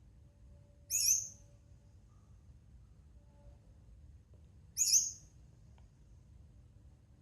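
A pet bird gives two short, loud, high-pitched calls, about four seconds apart.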